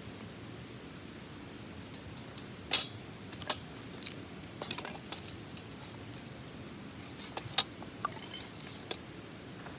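Light metal pieces clinking and rattling as they are handled: a dozen or so sharp clinks, the loudest about three seconds in and near the end, with a short jangling rattle just after.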